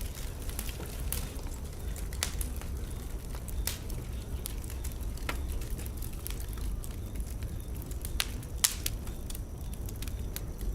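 Wood fire burning in a fireplace: irregular sharp crackles and pops over a low steady rumble of the flames, with one louder pop a little past eight seconds in.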